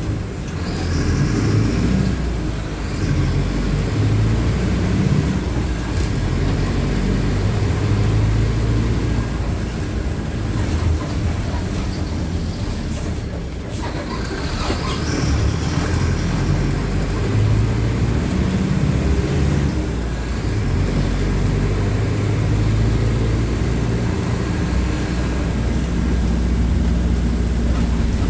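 Mercedes-Benz OF-1519 city bus's four-cylinder diesel engine running under way. Its pitch and loudness rise and fall several times as it pulls and eases off.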